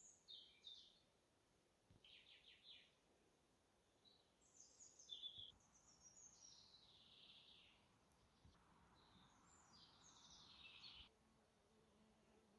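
Faint songbirds singing: a series of short high phrases and trills, with a longer descending phrase in the second half.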